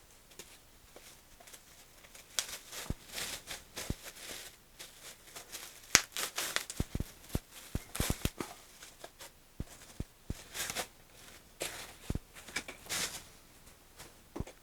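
Plastic packaging crinkling and rustling as a foam RC glider wing is unwrapped and handled, with irregular light clicks and knocks.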